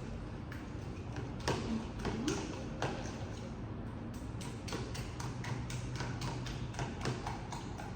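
A fork clicking and tapping against a bowl, a few strikes a second, as butter, sugar and eggs are mashed and mixed together, over a steady low hum.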